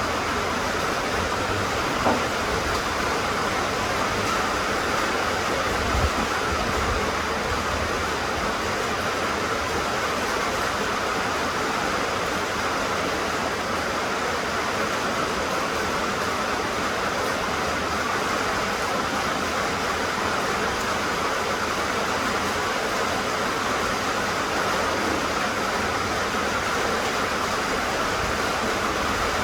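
Steady rain falling, an even hiss with no change in strength, with two brief knocks about two and six seconds in.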